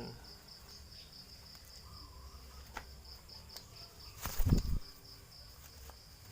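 Insects chirping steadily in a high, evenly pulsed trill. About four and a half seconds in there is one brief, loud rustling thump, with a few faint clicks before it.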